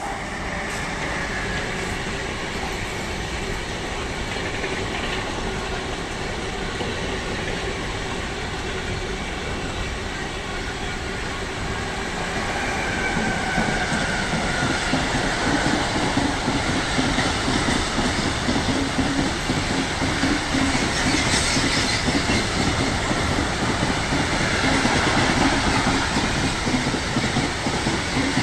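A train running past on the rails: a steady rumble of wheels on track that grows louder about halfway through.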